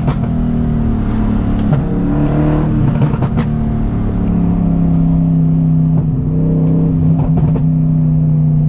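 Straight-piped BMW M60 V8 running at low, even revs under a light load. Its pitch wavers a little in the first few seconds, then holds steady, with a few light clicks and knocks scattered through.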